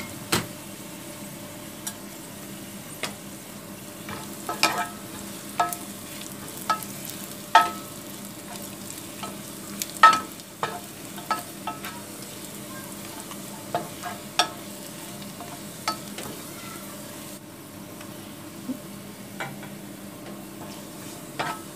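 Sliced onions and whole spices frying in ghee in a nonstick pan, a steady sizzle, with a spatula stirring and clicking against the pan every second or two.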